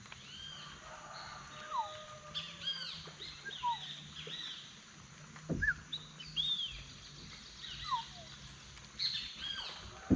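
Rainforest birds calling: clusters of quick, high, arched chirps repeated every second or so, with a few sharp falling whistles, over a steady high-pitched background drone.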